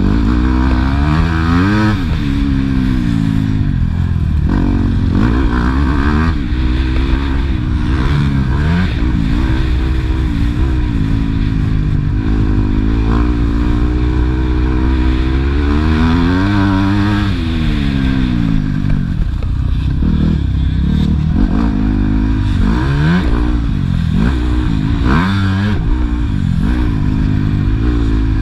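Motocross motorcycle engine at racing speed, its pitch repeatedly climbing as the throttle opens and dropping back at each gear change or corner.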